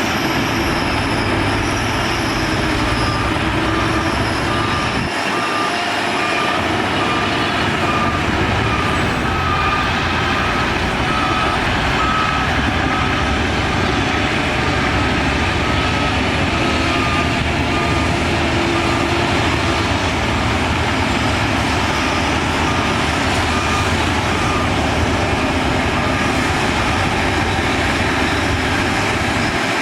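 Heavy diesel earthmoving machinery running steadily under load, with a reversing alarm beeping about once a second for most of the time.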